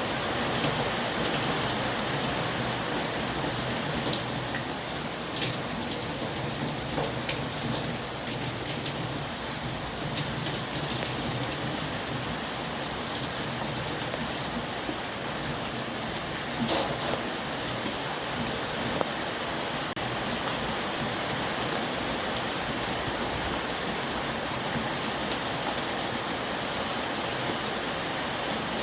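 Heavy rain falling steadily, with scattered sharper drop impacts standing out, more of them in the first half.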